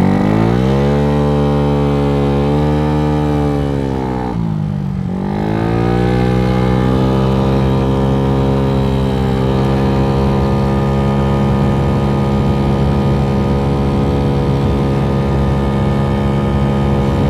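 Dongfang DF50SST scooter's 88cc big-bore single-cylinder four-stroke engine running under way. Its pitch climbs at the start, falls briefly about four to five seconds in as the throttle eases, rises again, then holds steady at cruising speed.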